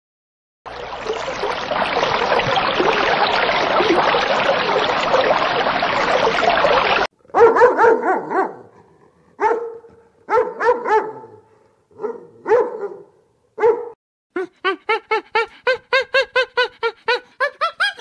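A dense, steady rushing noise for about six seconds that stops abruptly, then a dog barking in several short bouts, followed by a fast run of short calls, about five a second, near the end.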